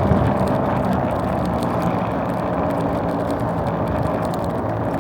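Mini bike's small engine running steadily while riding.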